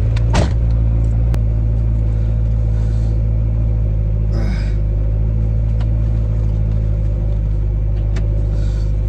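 Turbocharged Acura Integra engine running steadily with a deep, even rumble, freshly repaired after a crank-no-start caused by a broken fuel-pump wire. A few short clicks stand out, the sharpest about half a second in.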